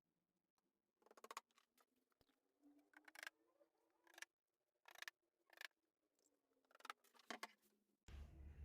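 Faint, scattered clicks and rustles in several short clusters, with a steady low hum starting near the end.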